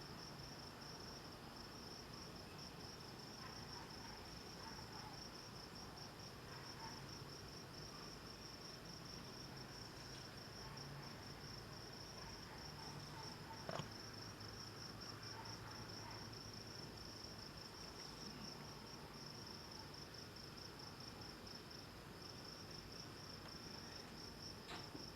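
Crickets chirping in a continuous, steady high trill. A single faint click comes about halfway through.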